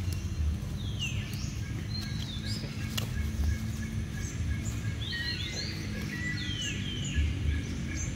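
Birds chirping outdoors: short calls that fall in pitch, mostly in pairs, over a steady low outdoor rumble, with one sharp click about three seconds in.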